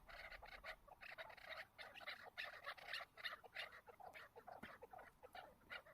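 Chukar partridges calling: a faint, unbroken run of short, quick notes, several a second, overlapping as if from more than one bird.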